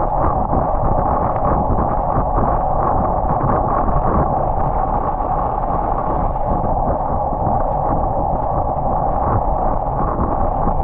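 Steady rushing noise of a road bike ride in the rain, picked up by a microphone mounted on the bike: wind on the microphone mixed with tyre and road noise, unchanging throughout.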